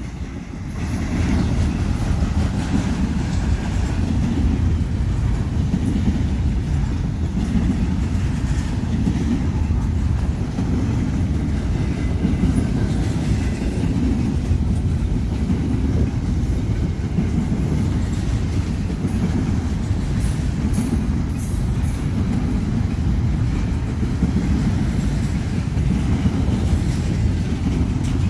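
Union Pacific freight train cars rolling past, a steady heavy rumble of wheels on rail with some clickety-clack.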